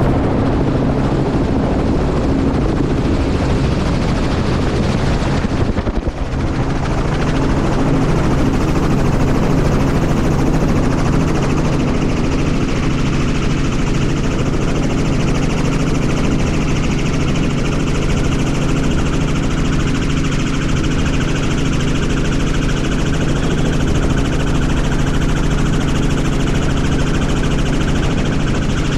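Helicopter turbine and rotor running steadily, a loud, even drone with a constant pitch. It dips briefly about six seconds in.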